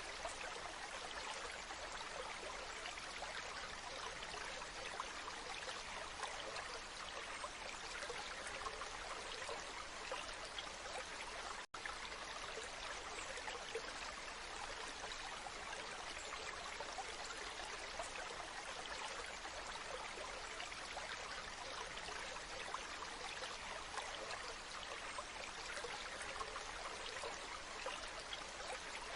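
Waterfall: a steady rush of falling water that cuts out for an instant about twelve seconds in.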